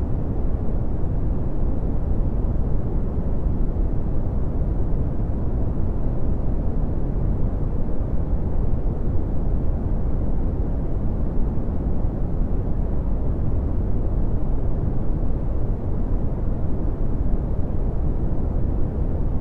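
Red (Brownian) noise: a steady, deep rumbling hiss with most of its power in the bass, falling away steeply toward the highs, unchanging throughout.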